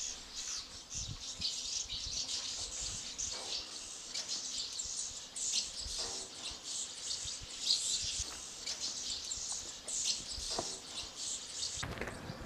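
Small birds chirping: many short, high chirps overlapping without a break.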